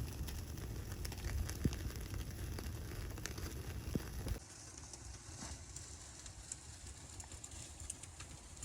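Wood fire crackling with scattered sharp pops. A low rumble underneath stops abruptly about four and a half seconds in, leaving the crackle quieter.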